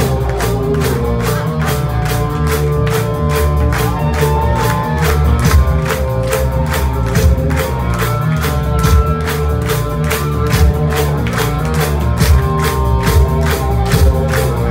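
Live rock band playing at full volume, with drums keeping a fast, steady beat over sustained guitar chords.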